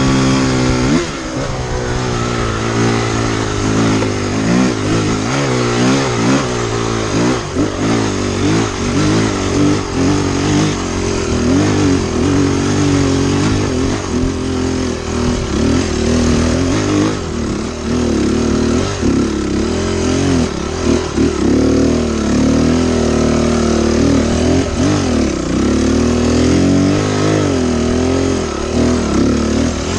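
Honda CRF250X single-cylinder four-stroke dirt bike engine running under way, its revs rising and falling constantly as the throttle is worked.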